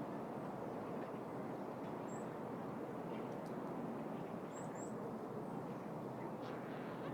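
City park ambience: a steady wash of distant city traffic noise, with a few brief, high bird chirps about two seconds in and twice more near five seconds.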